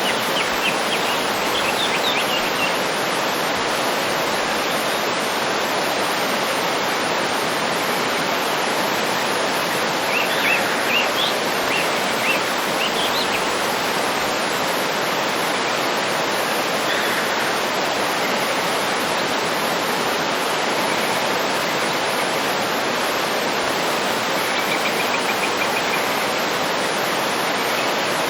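Waterfall pouring in a steady rush, with birds chirping now and then over it: short chirps near the start, a cluster of calls about ten seconds in, and a brief trill near the end.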